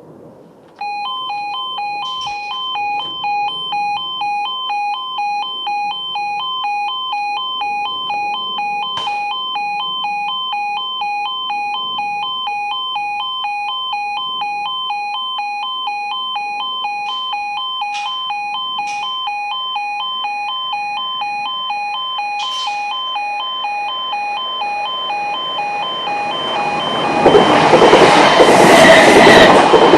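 Level crossing warning alarm sounding, starting suddenly about a second in: a pulsing two-tone electronic alarm repeating in a quick, even rhythm. A few seconds before the end, a train arrives and passes over the crossing, a loud rushing rumble that rises over the alarm.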